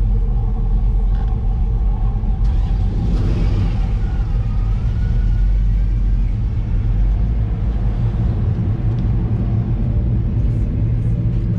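Chevrolet C10 square-body pickup's engine running with a steady, low sound.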